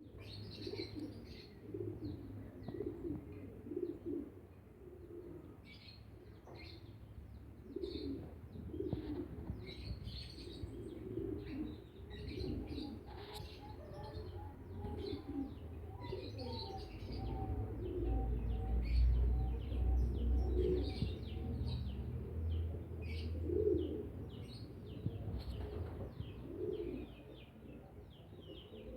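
A pair of lovebirds chirping in short, high, repeated bursts, with lower-pitched calls underneath. A low rumble swells in the middle and is the loudest part.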